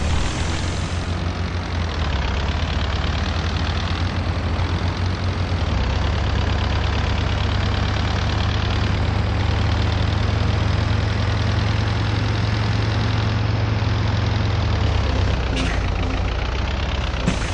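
MAZ-241 bus diesel engine running, a steady low drone that rises in pitch about two seconds in, holds, and drops back near the end, with a couple of short knocks near the end.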